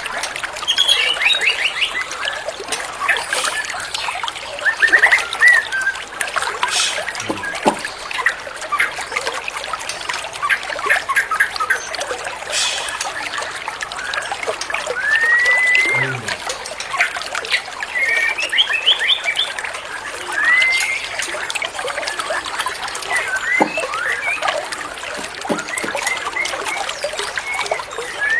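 Steadily trickling water with a songbird calling over it in short whistles, rising glides and quick trills, scattered throughout.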